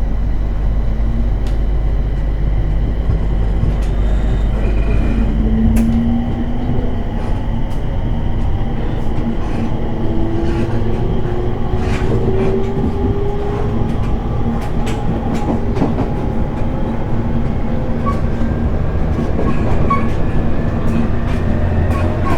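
Cabin running sound of a JR 701 series electric train: a steady rumble of wheels on rail with scattered clicks over the rail joints. About five seconds in, a traction-motor whine appears and rises slowly in pitch as the train gathers speed.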